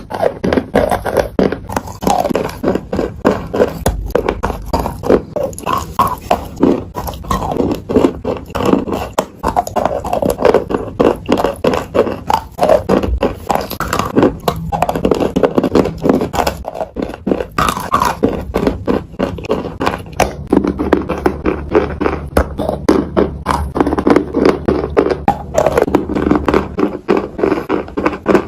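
Close-miked biting and crunching of crunchy food, a rapid, irregular run of sharp crunches several times a second.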